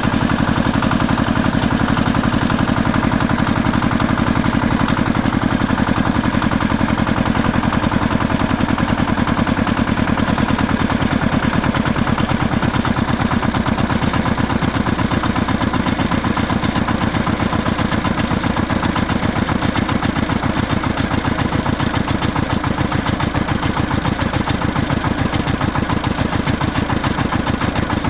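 An engine idling steadily with a fast, even chugging pulse.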